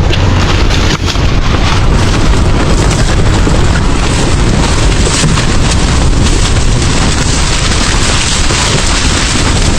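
Strong wind blowing hard on the microphone: a loud, continuous, rumbling roar.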